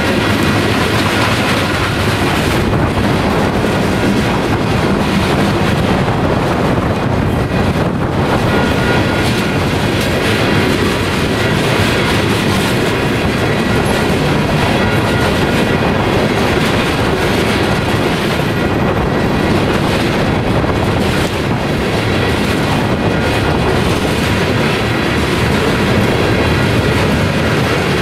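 Loaded coal hopper cars of a Union Pacific freight train rolling past a grade crossing, a steady loud noise of wheels on rail that holds even throughout.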